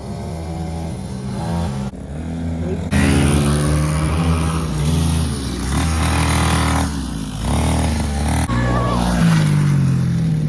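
Small dirt bike engine running and revving, its pitch rising and falling several times.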